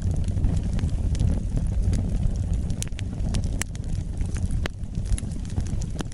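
Wood fire burning with a steady low rumble from the flames and scattered sharp crackles and pops from the burning wood.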